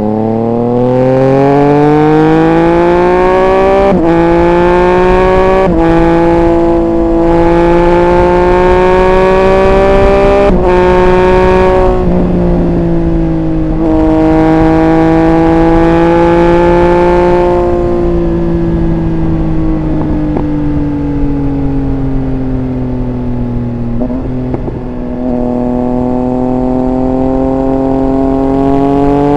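Triumph Speed Triple 1200 RR's inline three-cylinder engine under way, revs rising as it accelerates, with quick drops in pitch at upshifts about 4, 6 and 10 seconds in. It then runs at fairly steady revs, eases off about 24 seconds in and picks up again near the end.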